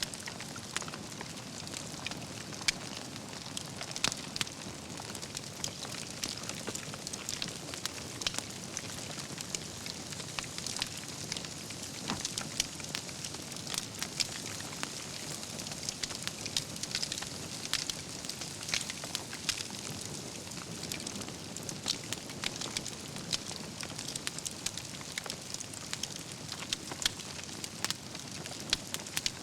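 Wood fire burning steadily, with a constant soft hiss and many sharp, irregular crackles and pops from the burning logs.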